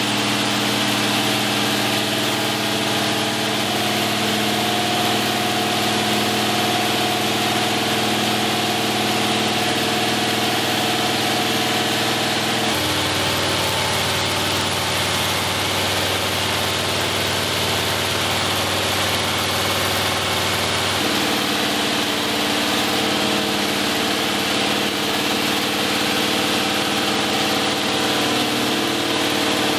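Chevrolet 307 small-block V8 running steadily on an engine dyno during its break-in after first start. The note changes abruptly about 13 seconds in and again about 21 seconds in.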